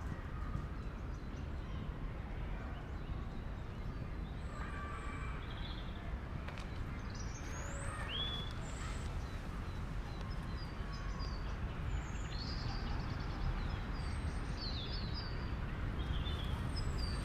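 Birds chirping and calling in short, scattered whistles and rising or falling chirps, over a steady low rumble of distant city noise.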